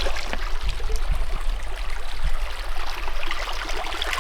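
Small creek flowing, a steady rush and babble of water.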